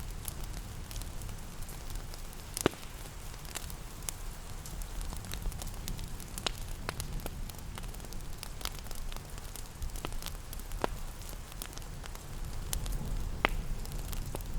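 Wood fire crackling in a fireplace: irregular sharp pops and snaps, a few louder ones, over a steady low rumble, with gentle rain hissing in the background.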